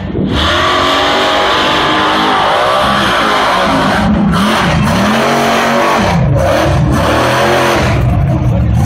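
Truck engine running hard at high revs, its pitch rising and falling several times as the throttle is worked.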